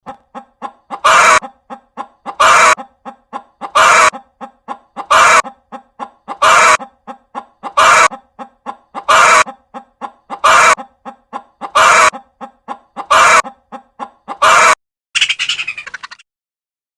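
Chicken calls in a regular pattern: a string of short clucks, then a loud squawk, about every second and a half, ten times over. Near the end comes a shorter run of rapid clucks, then it stops.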